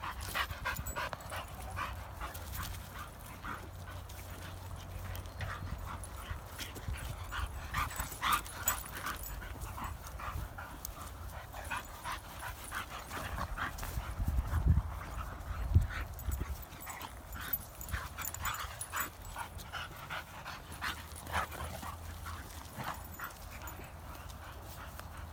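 Dog making short whimpering and panting sounds scattered throughout, over a low rumble that is loudest about fifteen seconds in.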